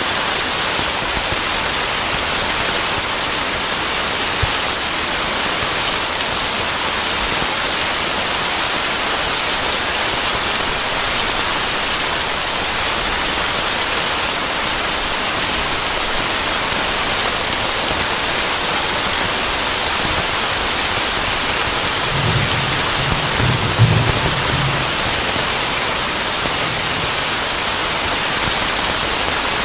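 Steady heavy rain hissing evenly. About two-thirds of the way through, a low roll of thunder rumbles for a few seconds.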